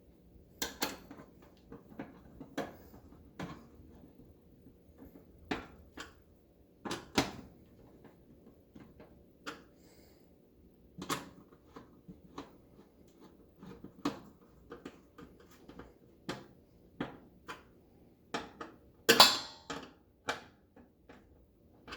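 Irregular clicks, taps and knocks of oven control panel parts being handled and fitted back into place, with a louder cluster of knocks near the end.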